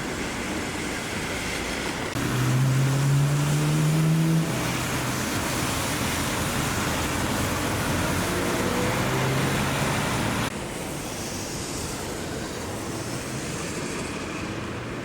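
Traffic on a rain-soaked road: a steady hiss of tyres on wet asphalt, with a vehicle engine's low hum rising over it about two seconds in and again later.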